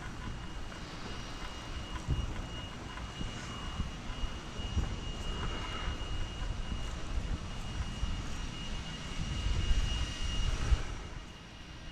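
Wind buffeting the microphone of a bicycle-mounted action camera while riding, a gusty low rumble with tyre and road noise, swelling near the end and easing off shortly before it ends.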